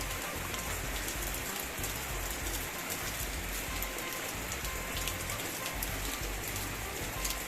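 Rain falling steadily, a dense even hiss with many individual drops ticking.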